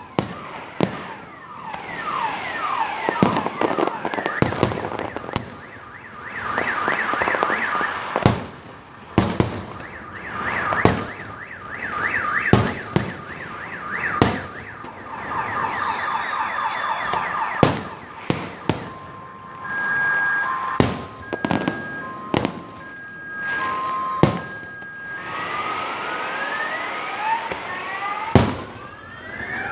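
Fireworks display: repeated sharp bangs with clusters of whistling rockets, their pitch gliding up and down. A little after the middle, steady high tones sound on and off for a few seconds.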